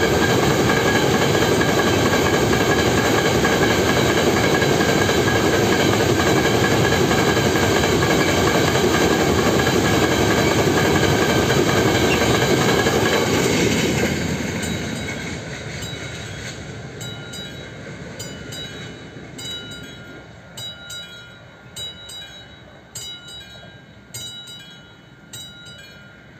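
Freight train of loaded container flat wagons rolling past at close range, wheels clattering over the rails, steady and loud until it fades away about halfway through. As it fades, the level-crossing warning bell is heard ringing, about two strikes a second.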